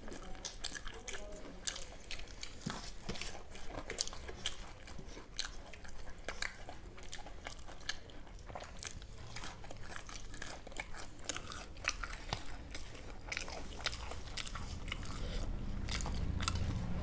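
Close-up crunching and chewing of crisp food, many sharp crunches one after another, with a low rumble building near the end.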